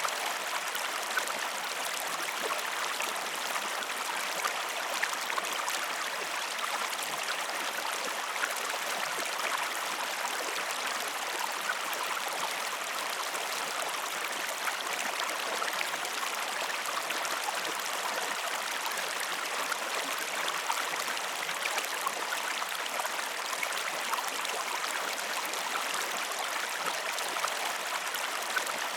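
Steady babbling stream water with many small trickling splashes.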